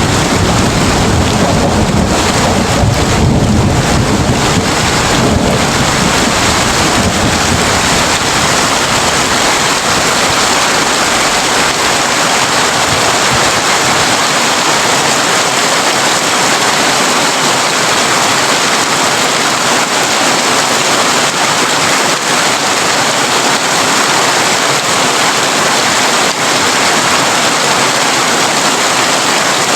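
Heavy rain drumming on a tin roof in a steady, dense hiss. A low rumble of thunder rolls under it at the start and dies away after the first several seconds.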